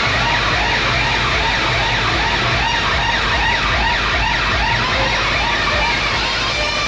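Loud DJ sound system playing a siren effect: rapid rising-and-falling sweeps, about three a second, over a steady heavy bass. The sweeps stop about six seconds in as the music carries on.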